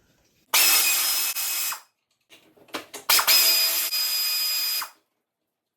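A handheld power tool runs in two short bursts of about a second and a half each, a steady high whine over a hiss, with a few clicks between the bursts.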